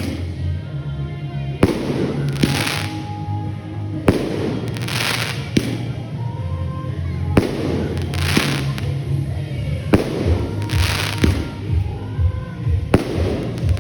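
Aerial fireworks going off in a steady sequence, one about every two to three seconds: each a sharp bang, followed about a second later by a hissing, crackling burst.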